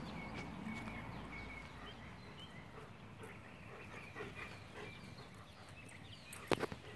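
Songbirds chirping and singing, with a quick run of even notes near the start, over a steady outdoor hiss. A single brief sharp sound near the end.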